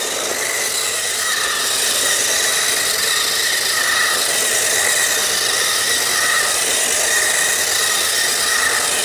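Battery-powered RC drift car's electric motor whining as it drives, its pitch wavering up and down with the throttle, over a steady hiss.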